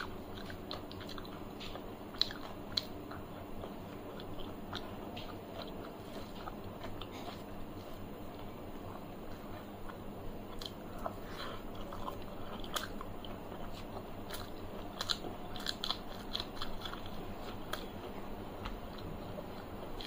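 Close-up chewing and crunching of a rice meal eaten by hand, with scattered small clicks and taps as fingers mix food on a metal plate.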